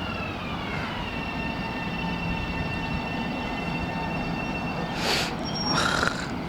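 LIRR M7 electric multiple-unit train slowing to a stop, its propulsion whine gliding down in pitch over the first second and then holding steady. Two short hisses near the end.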